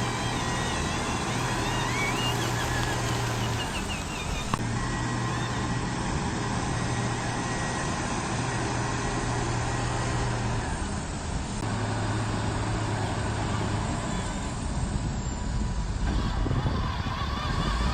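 Radio-controlled model construction machines running: a steady electric motor and gear whine over a low hum that shifts in level a few times as the load changes.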